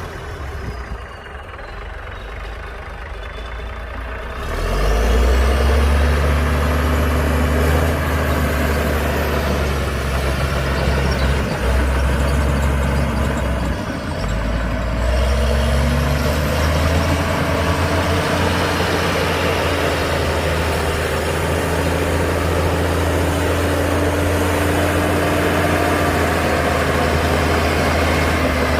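Heavy diesel engine of earthmoving machinery running, growing much louder about four seconds in and then holding steady.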